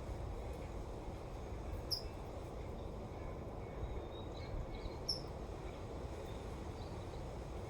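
Steady wind, heard mostly as a low, even noise, with a few short, high bird chirps, the clearest about two seconds and about five seconds in.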